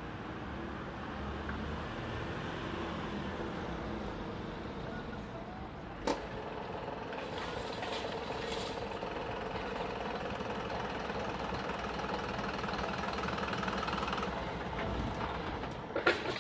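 Road vehicle engine running steadily at a level crossing, with one sharp knock about six seconds in and a few clicks near the end.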